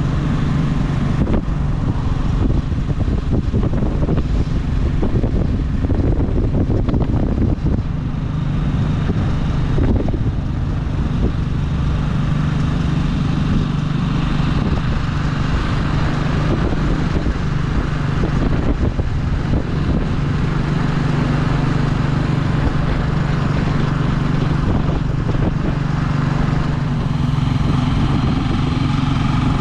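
Motorcycle engine of a tricycle (motorcycle with sidecar) running at a steady cruise, heard from inside the sidecar, with a constant low hum.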